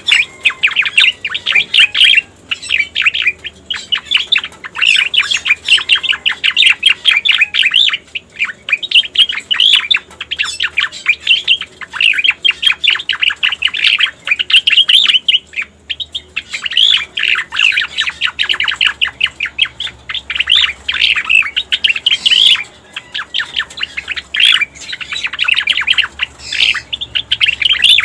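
Cica koreng (striated grassbird) song: long runs of rapid, chattering notes, broken every few seconds by short pauses.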